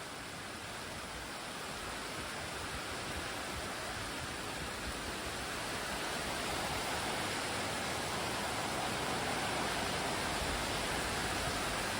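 Heavy tropical downpour: rain pouring steadily in a dense, even hiss that grows gradually louder.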